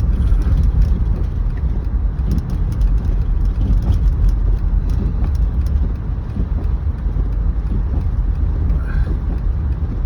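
Steady low rumble of a car driving on a snow-covered highway, heard from inside the cabin: engine and tyre noise with no sudden events.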